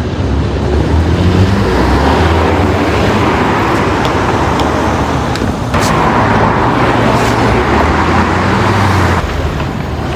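Mercedes-AMG CLS53's turbocharged inline-six engine and exhaust running, rising in pitch in the first couple of seconds, with a louder stretch from about six to nine seconds in.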